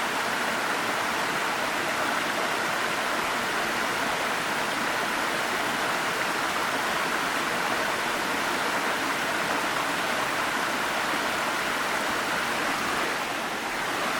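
Waterfall: a steady, even rush of falling water, dipping slightly near the end.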